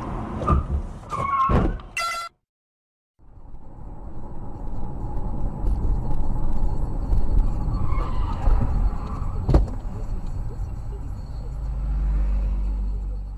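Car on the road heard through a dashcam: a steady low rumble of engine and tyres. A few knocks come in the first two seconds, the sound cuts out briefly just after two seconds in, and a single sharp knock comes about nine and a half seconds in.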